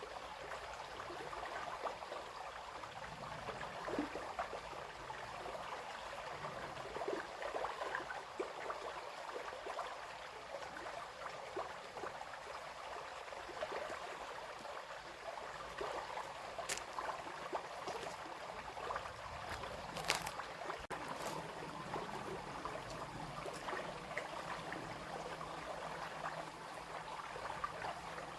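A small stream babbling and splashing steadily over stones. A few sharp clicks sound briefly in the second half.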